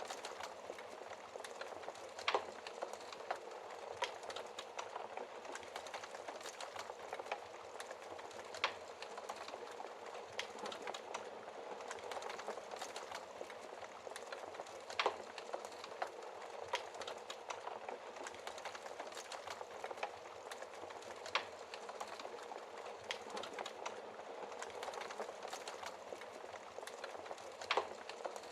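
Wood fire crackling steadily, a dense patter of small crackles with five louder pops spaced about six seconds apart.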